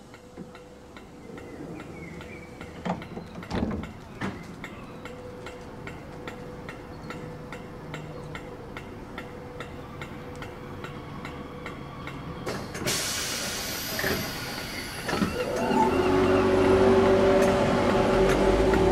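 Electric multiple-unit train approaching, getting steadily louder, with rail hiss coming in partway through and a rising electric motor whine near the end. A few sharp knocks sound in the first few seconds.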